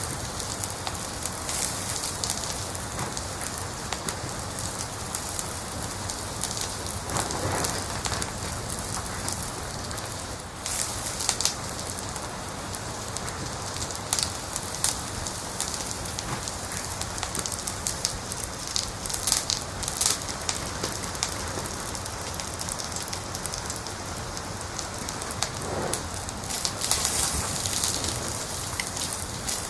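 Wood fire crackling in a fireplace: a steady hiss with many sharp pops and snaps scattered through it.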